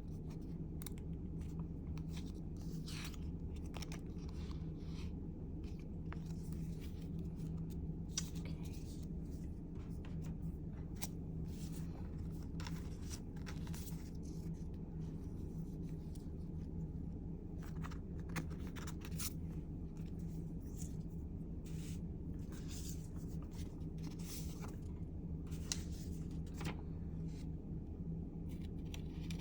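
Paper and sticker sheets being handled for collage work: irregular crisp rustles, scrapes and snips scattered throughout, over a steady low hum.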